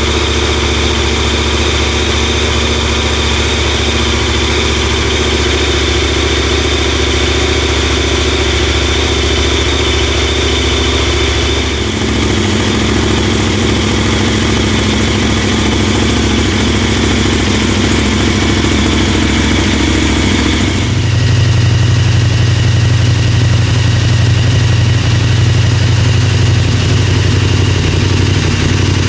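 KTM 1290 Super Adventure S V-twin engine idling steadily through its exhaust. The tone changes abruptly about 12 seconds in and again about 21 seconds in, with takes of different exhaust setups (standard, and Arrow Sonora with and without the dB killer); the last stretch is louder and deeper.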